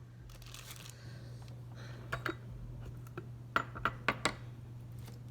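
Handling small kitchen objects: a soft rustle near the start, then light clicks and clinks, a pair about two seconds in and four more over the following two seconds.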